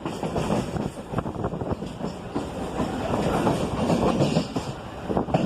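Mumbai suburban local train running, a steady rumble with irregular knocks and clatter from the wheels on the track.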